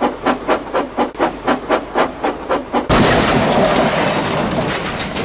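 Steam locomotive chuffing at about four puffs a second, then about three seconds in a sudden loud crashing noise that runs on for a couple of seconds: the train crashing into vans.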